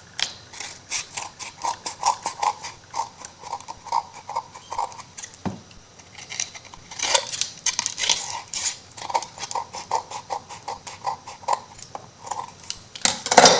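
Scissors snipping along the edge of a sheet of paper: a long run of short, quick snips, about three a second, with a few brief pauses.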